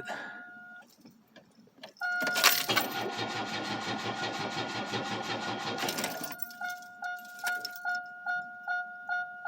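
Chevrolet Cavalier's starter cranking its flooded engine for about four seconds without it catching. A two-tone warning chime sounds under the cranking and then goes on alone in short pulses, about two a second.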